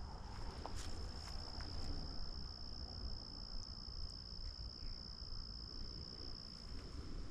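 An insect, likely a cricket, trilling continuously on one high steady pitch. It starts about a second in, over a faint low rumble.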